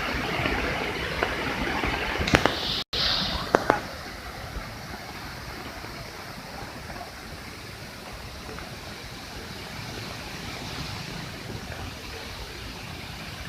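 Steady rushing of a waterfall in flood, overflowing with high water after heavy rain. A few sharp knocks come about two and a half to three and a half seconds in, around a brief dropout, after which the rush goes on more quietly.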